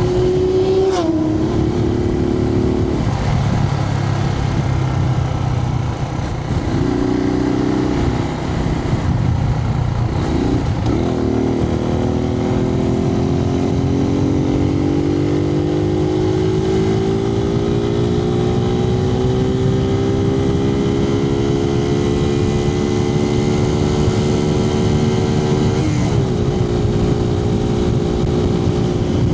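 Suzuki TU250X's air-cooled single-cylinder engine heard from inside the rider's helmet, running under way over a steady rush of wind. The engine pitch changes several times in the first ten seconds as the rider shifts gears. From about halfway through, the revs climb slowly and steadily, then drop at a gear change near the end.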